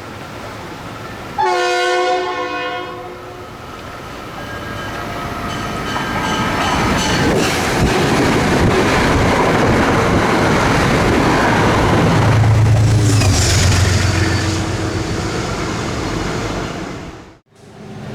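Passenger train sounding one short multi-note horn blast about a second in, falling slightly in pitch, then passing with wheel and rail noise that builds to a loud peak. The sound cuts off suddenly near the end.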